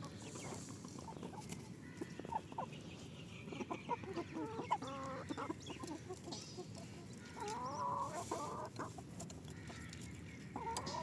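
Desi hens clucking while they feed on wet bran, with short runs of calls about halfway through and again near the end, and a few short taps.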